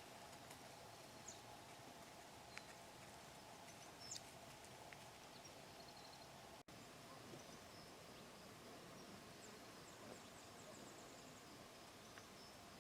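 Near silence: faint outdoor ambience, with a few faint high chirps and soft clicks.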